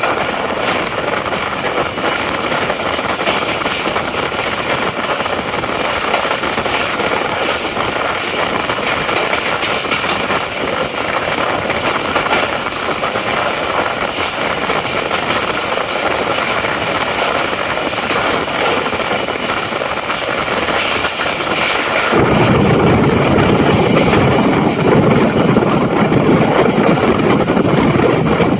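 Passenger train running at speed, heard from on board as a steady rushing roar. About 22 s in it abruptly gets louder, with a much stronger deep rumble.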